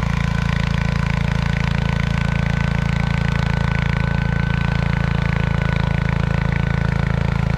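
John Deere 140 H3 garden tractor's single-cylinder Kohler engine running steadily under load while pulling a single-bottom plow.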